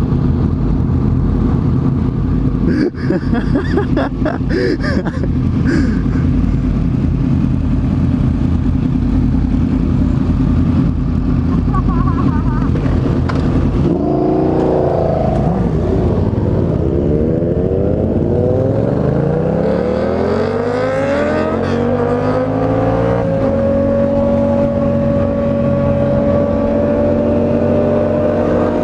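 Motorcycle engine running under the rush of riding. About halfway through it speeds up with rising pitch, then does so again over several seconds and settles into a steady higher note near the end.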